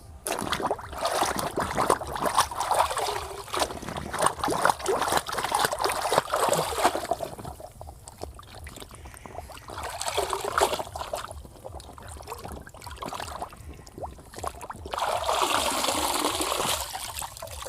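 Water trickling and splashing as a muddy toy oil tanker is rinsed and handled, with small clicks of handling. It comes and goes in spells, loudest at the start and again near the end.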